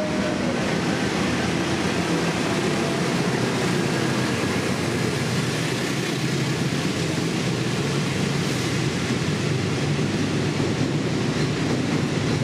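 Container freight train hauled by a diesel locomotive passing close by. The locomotive's engine comes past first, then a long line of loaded container flat wagons rolls by, with steady, loud wheel-on-rail noise.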